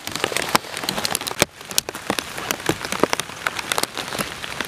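Rain falling on a plastic tarp shelter: a dense, irregular ticking of drops striking the sheet.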